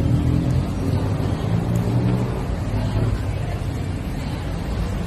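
Steady low rumble of a motor vehicle engine, with some faint pitched lines in the first few seconds.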